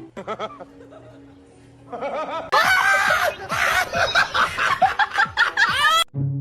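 Laughter with music behind it: a loud run of quick, rising and falling laughs starts about two seconds in and stops abruptly near the end.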